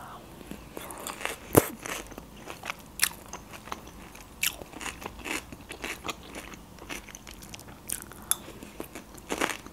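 Close-up chewing and biting of crisp fresh salad vegetables, such as cucumber, in the mouth: irregular wet crunches, the sharpest about a second and a half in.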